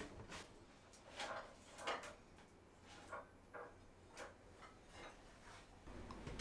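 A run of faint, irregular light knocks and clicks, about ten in all, as tableware is handled and set down.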